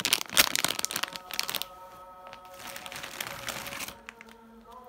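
A plastic treat pack crinkling and crackling as it is handled, loudest in the first second and a half, with quieter rustling after. Soft background music with held notes comes in about a second in.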